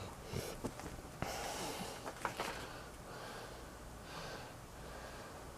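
Faint handling sounds as boxed ceiling-fan parts and papers are unpacked: soft rustling with a few light clicks, and breathing close to the microphone.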